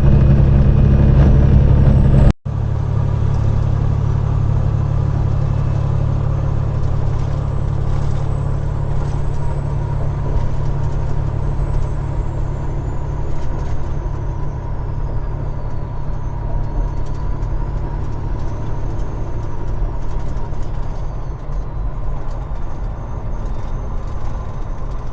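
Diesel engine of a Peterbilt 389 glider semi truck running steadily at road speed, with a faint high whine that wavers slowly in pitch. The sound breaks off for an instant about two seconds in, then carries on.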